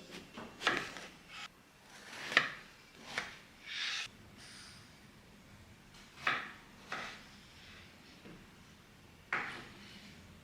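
Kitchen food-prep sounds: irregular knocks and scrapes of a knife or utensils on a wooden board and cookware, with a longer scrape about four seconds in.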